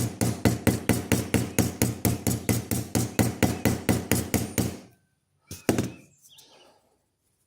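A hammer tapping pins through the bone handle and frame of a folding pocket knife: quick, even light taps at about five a second, then a pause and two harder knocks close together near the end.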